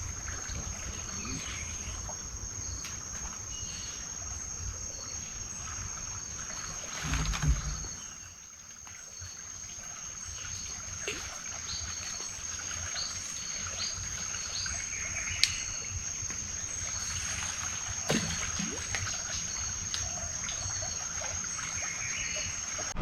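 Crickets trilling in one steady high-pitched note, with scattered short chirps over a low rumble. A louder low knock about seven seconds in, and a single sharp click about halfway through.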